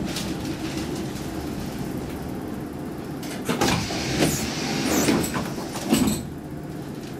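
Interior of a Saltsjöbanan C10/C11 electric commuter train running, a steady rumble from the car. About halfway in comes a few seconds of louder clattering and squealing, which cuts off about six seconds in.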